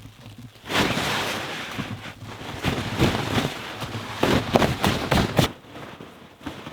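Packed snow being knocked off a truck's awning, sliding off the fabric in a loud rush with a series of thuds as it lands. It stops suddenly about five and a half seconds in.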